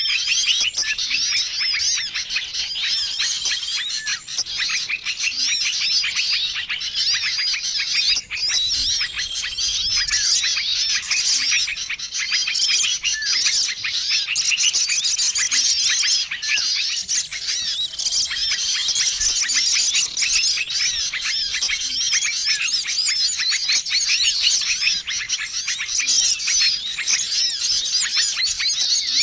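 Bird-lure recording of a dense, busy chorus of many small songbirds chirping and twittering at once. A short level whistled note recurs every two to three seconds.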